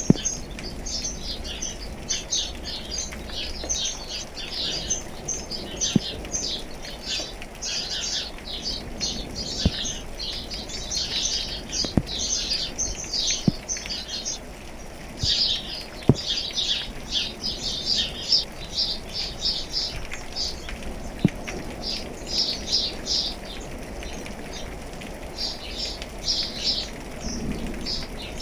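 Many small birds chirping in a busy, continuous chorus of short high notes, over a soft patter of rain with a few light taps.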